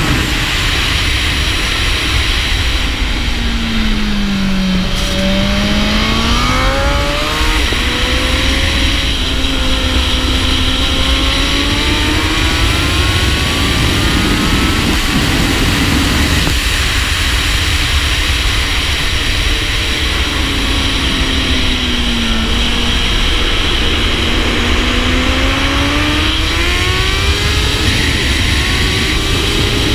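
2017 Honda Fireblade SP's inline-four engine at track speed under heavy wind noise on a shoulder-mounted camera. The engine note falls to a low point about four to five seconds in, then climbs, falls again a little past the twenty-second mark and climbs once more near the end.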